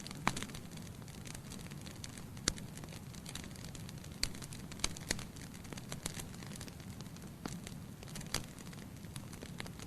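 Wood fire burning in a fireplace: a steady low rumble of the flames with irregular sharp crackles and pops from the burning logs, a loud pop about two and a half seconds in.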